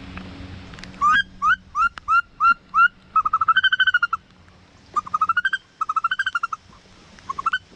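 Wood duck squeals: a series of rising, whistled 'oo-eek' notes about three a second, then several runs of fast repeated squealing notes.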